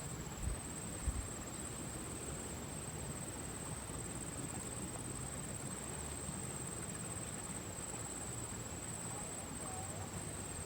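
Faint rural ambience with a steady, high-pitched insect trill that does not change, and two faint knocks within the first second or so.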